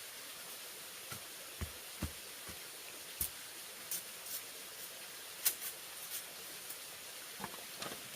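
A scattering of short, irregular knocks and clicks, a few of them dull and low, most sharp and light, over a steady hiss of background noise.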